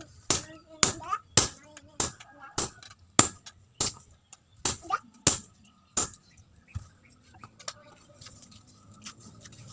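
Hammer blows on steel at the anvil, forging a machete blade from chainsaw-bar steel: about ten ringing strikes, roughly one every 0.6 s, that stop about six seconds in, followed by a few faint clicks.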